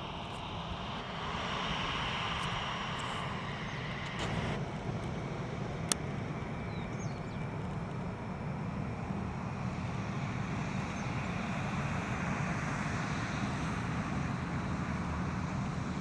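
Jet airliner engines running, a steady rushing hum that slowly grows louder. A single sharp click comes about six seconds in.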